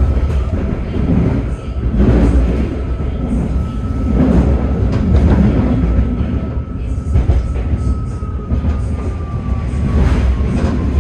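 BART train running along the track, heard from inside the car: a heavy low rumble with swelling wheel-and-rail noise and a steady high whine that drops slightly in pitch near the end.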